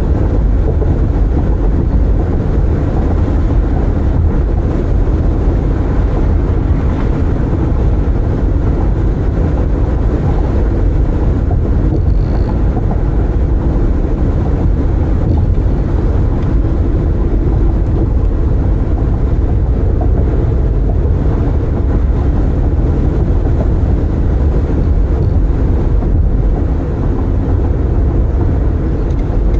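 Steady low rumble of road and wind noise from a car driving with its windows open.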